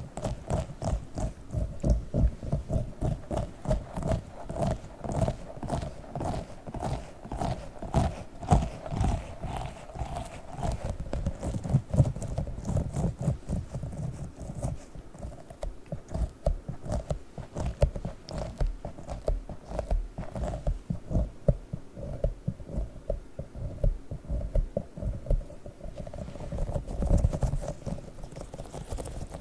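A tiny sticky octopus toy being pressed and pulled away close to the microphone, making fast, irregular sticky pops and smacks, several a second.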